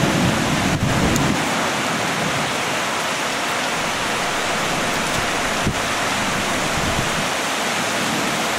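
Heavy rain pouring down in a thunderstorm: a steady, even hiss.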